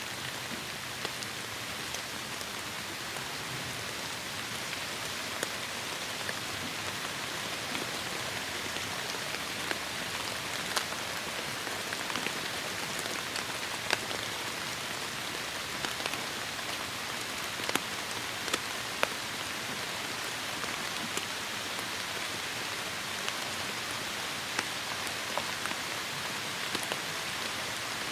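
Heavy rain falling steadily, an even hiss with scattered sharper drops striking close by.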